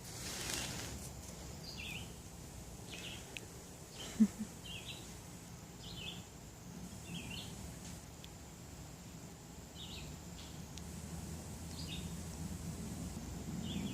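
Short, high bird chirps repeated irregularly, about one every second or so, over faint outdoor background noise, with a brief low thud about four seconds in.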